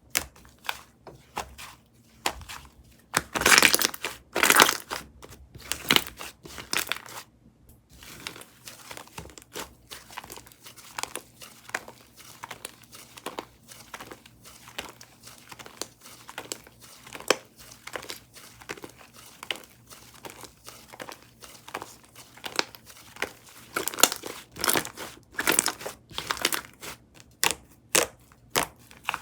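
A strawberry cookie whipped-cream slime being stretched, folded and squeezed by hand, giving a dense run of irregular crinkly crackles and pops, louder about three to five seconds in and again near the end.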